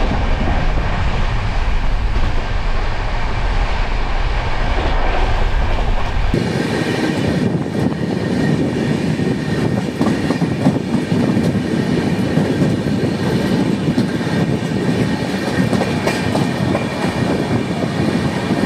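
Indian Railways express train running, heard from inside a sleeper-class coach: a steady rail and running-gear noise. About six seconds in the sound changes abruptly, the deep rumble dropping away and the mid-range noise growing louder.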